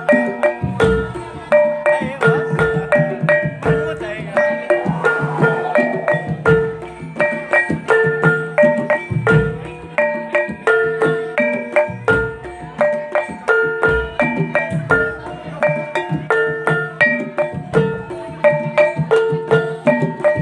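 Topeng Ireng dance music: a fast, steady rhythm of repeated pitched percussion notes at a few fixed pitches over low drum beats.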